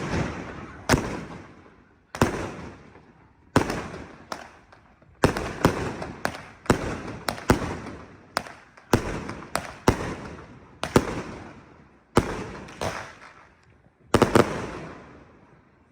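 Fireworks going off: a long run of sharp, loud bangs at irregular intervals, roughly one every half second to second and a half, each followed by a long echoing tail.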